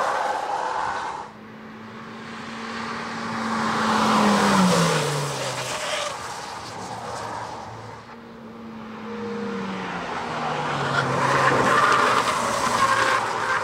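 Hyundai i20 N prototype's turbocharged 1.6-litre four-cylinder engine pulling hard on two passes. Each time the engine note swells as the car nears and then drops in pitch as it slows for a bend.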